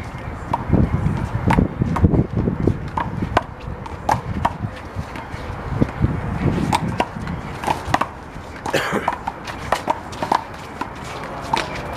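Rubber handball in a one-wall doubles rally: a string of sharp, irregular smacks as the ball is slapped by hands and struck against the wall and the pavement.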